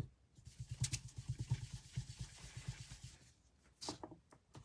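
Quick light tapping, about seven taps a second for some three seconds, as ink is dabbed onto card stock, then a brief rustle near the end.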